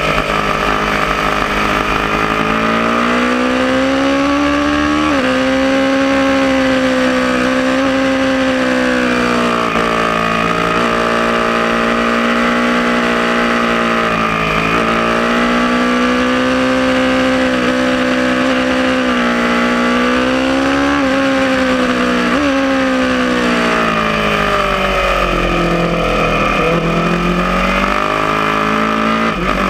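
Aprilia Tuono motorcycle engine at high revs on track, its pitch repeatedly climbing and then dropping sharply at gear shifts. Near the end the revs fall away for a few seconds under braking and downshifts, then climb again.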